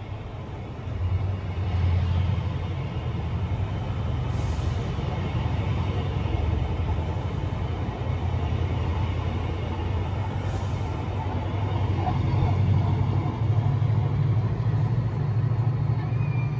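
TransPennine Express train moving slowly out along the platform: a steady low engine drone and rumble that swells a couple of seconds in and again towards the end.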